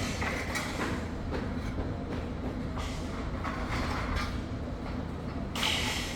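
Metal scaffolding parts clanking and knocking irregularly over a steady low rumble, with one louder, sharper clank near the end.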